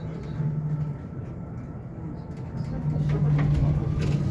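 Hyundai Elec City 2 electric bus under way, heard from inside the cabin: a steady low hum and road rumble, with the drive motor's faint whine rising in pitch as the bus speeds up in the second half.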